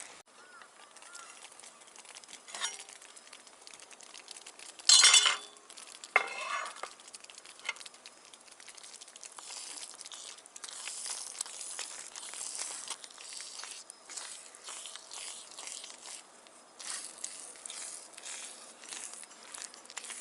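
Small items being handled: a sharp clink with brief ringing about five seconds in and another just after six seconds, then scattered crackling and rustling.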